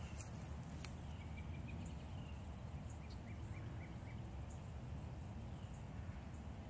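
Faint series of short, repeated high chirps from a small bird over steady low background noise of the woods, with one sharp click about a second in.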